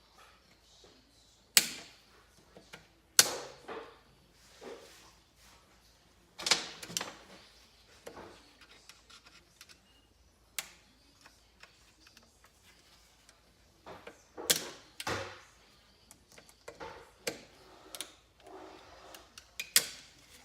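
Metal tools and clutch parts clicking and clinking at irregular intervals as a snap ring is worked off the clutch hub of a 1975 Kawasaki KZ400 engine. A few sharper clanks stand out among lighter ticks.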